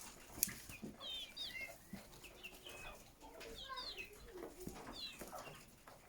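Chickens clucking, with many short, high chirps scattered throughout and a few sharp clicks.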